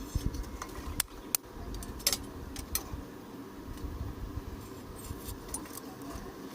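Light metallic clinks and clicks from small metal objects being handled, with several sharp clicks in the first three seconds over a low rumble that fades about halfway through.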